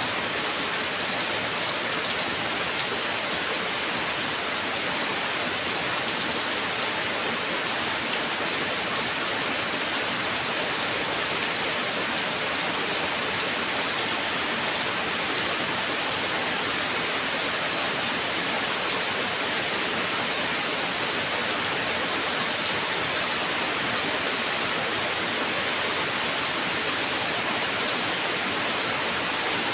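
Heavy rain falling steadily, an even hiss of many drops without let-up.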